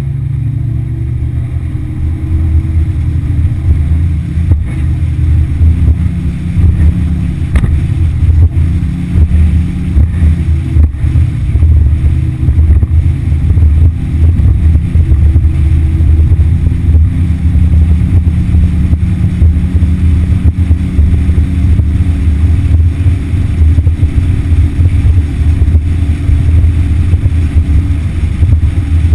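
Yamaha F60 four-stroke outboard motor running steadily under way, a loud low drone that builds a little over the first few seconds and then holds.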